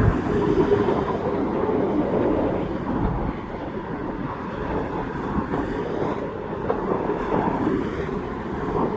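Steady noise of a passing vehicle, holding at much the same level throughout.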